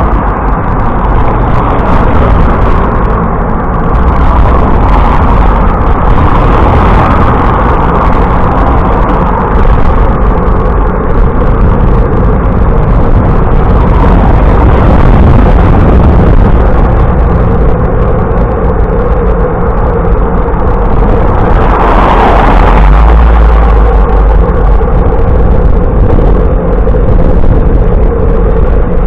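Steady, loud rumble of wind buffeting the microphone of a camera riding on a moving bicycle, with a brief swell of louder noise about two-thirds of the way through.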